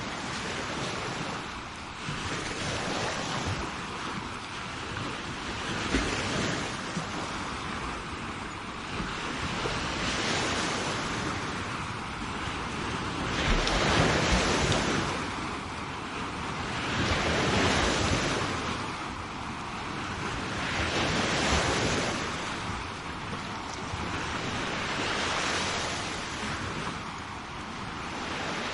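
Sea waves breaking and washing up a shore, each surge swelling and fading every few seconds, the biggest one about halfway through, with some wind noise on the microphone.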